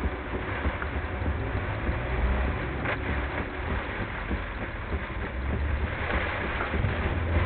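Heavy thunderstorm rain and road spray heard from a car driving through it, a steady rushing noise with a low rumble underneath, sped up to double speed. One sharp click about three seconds in.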